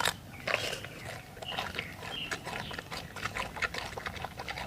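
An animal making short sounds among a rapid scatter of clicks and scrapes.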